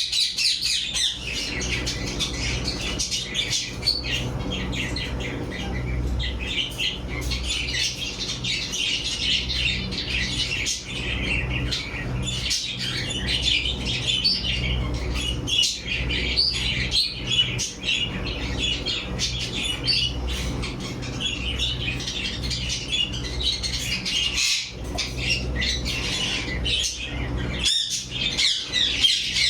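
A flock of caged parrots and budgerigars chattering and squawking without pause, many short overlapping calls at once. A steady low hum runs underneath.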